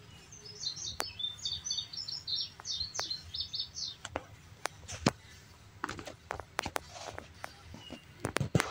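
A small songbird twittering in the background: a quick run of short, high chirps over the first few seconds. After that come scattered sharp clicks and taps, the loudest about five seconds in and a close cluster near the end.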